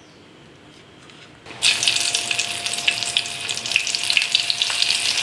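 Slit green chillies hitting hot oil, which breaks into a loud sizzle with dense crackling about a second and a half in.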